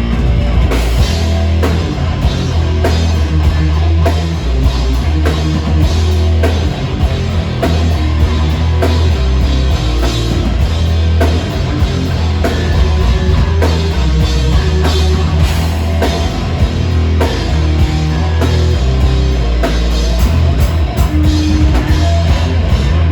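Metal band playing live and loud: distorted electric guitars and bass over a driving drum kit, with steady heavy low end and constant drum hits.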